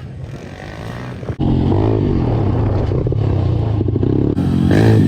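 Pit bike engines revving at a motocross track. The sound is fainter for about the first second and a half, then cuts in much louder, with the engine pitch rising and falling.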